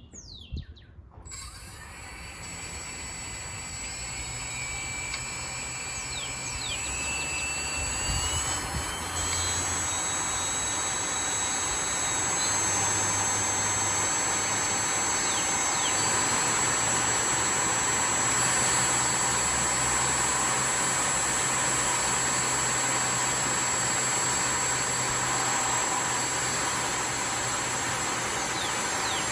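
Electric jet engine's motors starting about a second in and spinning up, a whine rising in pitch and loudness over several seconds. It then holds at a steady part-throttle as a high whine over a rush of air.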